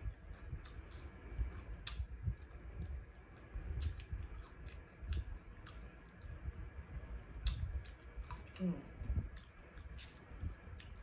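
Close-up eating sounds of a person chewing fried fish with her mouth: scattered wet mouth clicks and lip smacks over low bumps, with a short hummed 'mm' about two-thirds of the way through.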